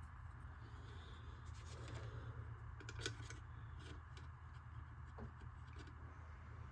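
Faint clicks and rubbing of small plastic RC body parts being handled and fitted, with one sharper click about three seconds in, over a low steady hum.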